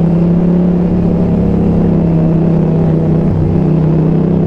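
Yamaha XSR700 parallel-twin motorcycle engine running steadily under way, holding an even note with a slight shift about three seconds in.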